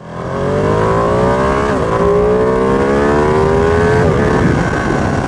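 Ducati Panigale V2's V-twin engine accelerating hard, its note rising through the gears with two quick upshifts, at about two and four seconds in.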